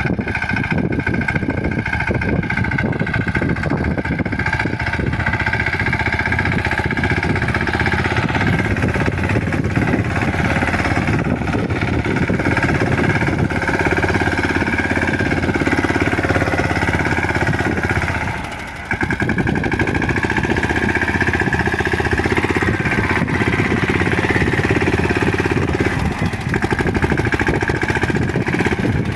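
Mahindra 215 tractor's single-cylinder diesel engine running steadily with a rapid knocking beat. It dips briefly in loudness about two-thirds of the way through, then picks up again.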